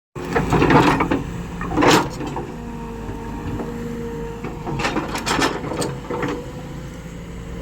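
Excavator's diesel engine running steadily with a low rumble, broken by short, loud bursts of rough noise at irregular intervals, about a second in, near two seconds, and several around five seconds in, as the machine works on rock.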